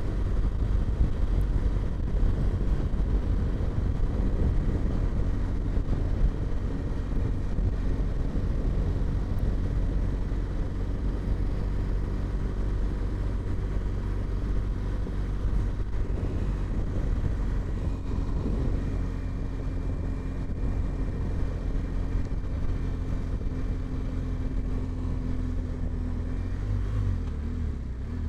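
Motorcycle riding along city roads: the engine runs steadily under a continuous low rumble of road and wind noise, its tone shifting a little in pitch now and then.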